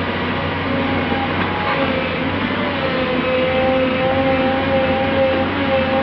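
Heavy diesel earthmoving machinery (excavators and dump trucks) running steadily, with a whining tone that grows stronger about two to three seconds in.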